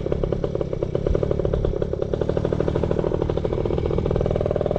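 Yamaha PW80 pit bike's small two-stroke single-cylinder engine running at a steady pace under way, its firing pulses even and rapid.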